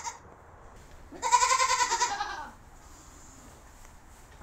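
A Nigerian Dwarf goat doe bleating once, a wavering call lasting about a second, with the end of another bleat at the very start.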